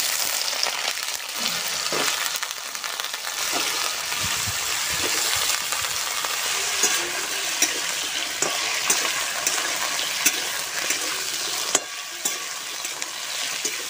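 Potato sticks sizzling as they fry in hot oil seasoned with panch phoron in a metal kadai. A metal spatula stirs them, with scattered sharp clicks and scrapes over the steady hiss.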